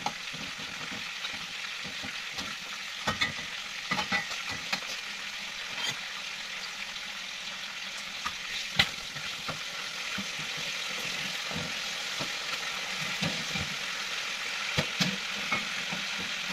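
Food sizzling in hot oil in a wok, with a metal spatula scraping and knocking against the pan now and then as it is stirred. The sharpest knock comes about nine seconds in.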